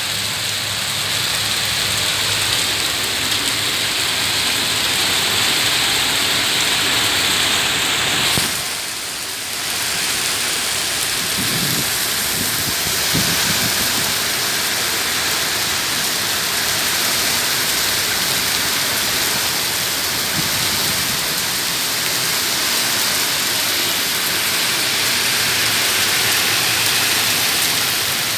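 Heavy rain pouring down in a steady, loud hiss, briefly dropping in level about eight seconds in.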